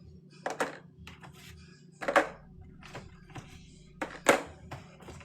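Hard items being set down while a fridge is stocked: three sharp knocks about two seconds apart, with lighter clicks and taps between them, over a steady low hum.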